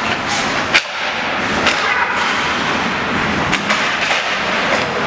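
Ice hockey game sounds in a rink: a steady wash of arena noise broken by a few sharp clacks of sticks and puck, the loudest a little under a second in and two close together past the middle.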